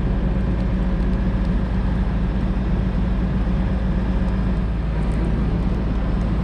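Heavy truck's diesel engine running steadily, with a constant low drone and a steady hum.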